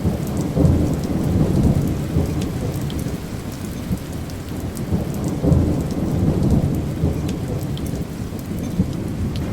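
Thunderstorm: rain with rolling thunder, a low rumble that swells about half a second in and again around five and a half seconds, over steady rain with scattered drop ticks.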